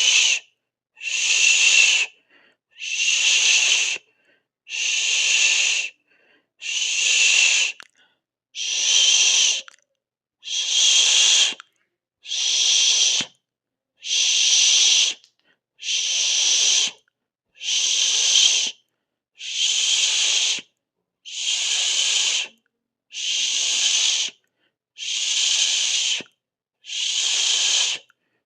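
Long shushing 'shhh' hisses, repeated about every two seconds, each lasting a little over a second with a short silent gap between.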